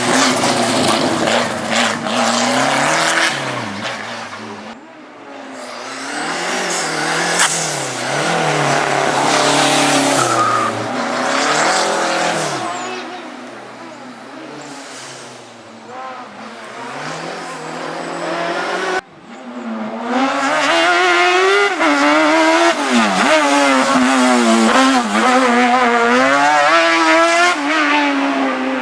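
Racing car engines revving hard through slalom chicanes, the pitch climbing and dropping again and again with gear changes and braking. The sound switches abruptly twice, as if to another car.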